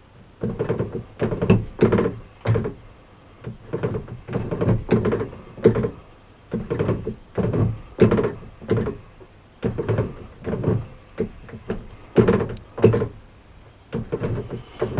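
Keyway being broached on a Turnell & Odell lathe: the tool is worked back and forth through the bore by hand, each pass a short scraping thunk, about one or two a second.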